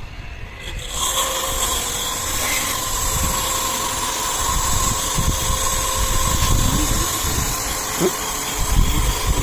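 Pressure-washer pump starting up about a second in and then running steadily with a hum, its water jet hissing as it sprays an air conditioner unit.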